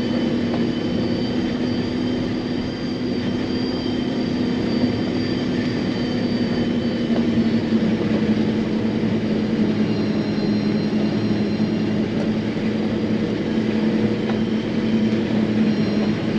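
John Deere self-propelled forage harvester heard from inside its cab while chopping corn: a steady, loud machine drone with a low hum and a faint high whine on top.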